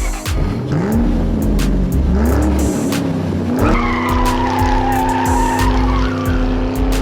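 Car sound effect: an engine revving up in three quick climbs, then holding a steady high note while tyres squeal, over music with a heavy beat.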